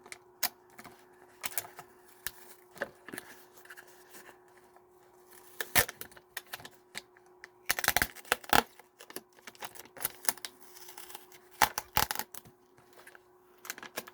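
Plastic takeout bowl packaging being handled and opened: irregular crackles, clicks and snaps of plastic, with a few louder crinkling spells, over a faint steady hum.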